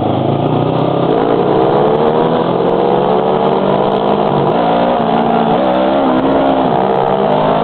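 Motorcycle with a loud muffler running under way, its engine pitch climbing steadily, then shifting and wavering in the middle as the throttle changes.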